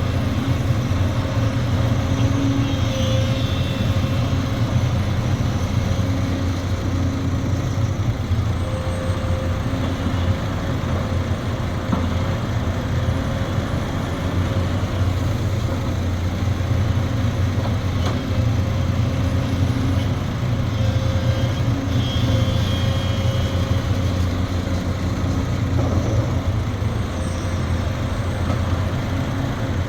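Sumitomo SH370LHD-6 hydraulic excavator's diesel engine running steadily under working load, swelling and easing every few seconds, with brief higher whines from the machine.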